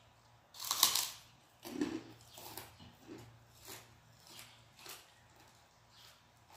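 A person biting into crunchy food by hand: a loud crisp crunch about a second in, then a run of crunching chews about every two-thirds of a second that fade away. A faint steady hum lies underneath.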